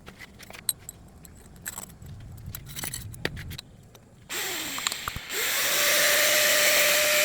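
A few light clicks and knocks, then about four seconds in a power tool starts up and runs with a steady whine and a loud hiss.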